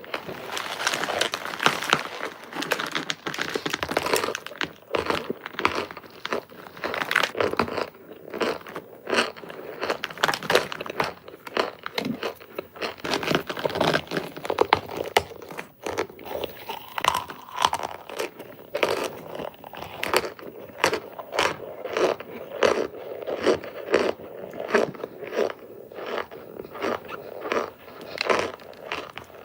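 Hard cornstarch bricks being bitten and chewed close to the microphone: a rapid, irregular run of crunches, several a second.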